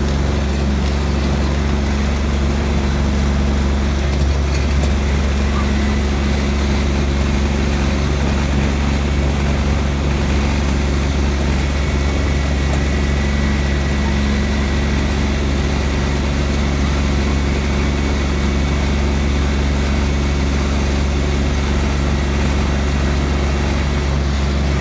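Tractor engine running steadily at a constant speed, loud and close.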